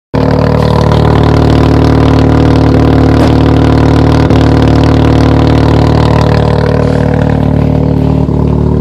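Engine running loud and steady at an unchanging speed, with no rise or fall in pitch; it cuts in abruptly just after the start.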